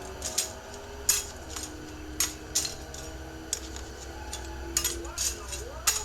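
Clutch plates from a 4L60 automatic transmission's clutch pack clinking against each other as they are handled and restacked: a string of sharp metallic clinks at uneven intervals.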